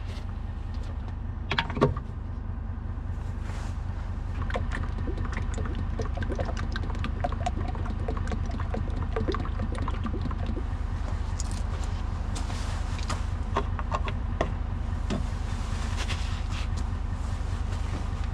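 A vehicle engine idling steadily as a low drone, with scattered small clicks and knocks of hand work. There is a louder knock about two seconds in.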